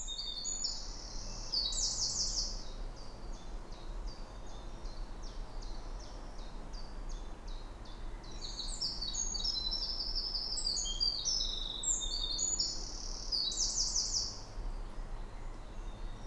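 Eurasian wren singing: a long run of rapid, high notes, with fast trills about two seconds in and again near the end.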